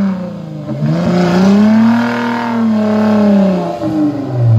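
Suzuki Vitara 4x4's engine revving hard under load as the stuck vehicle tries to climb out of a mud pit. The revs rise about a second in, hold, fall away near the end, then start climbing again.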